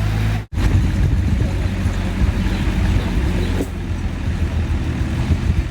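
Truck engine running with a steady low rumble, cut off for an instant about half a second in, then running on unevenly.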